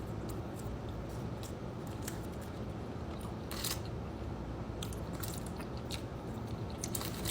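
Close-mic'd chewing of a grilled chicken parmesan sub sandwich: short mouth clicks and smacks scattered over a steady low hum.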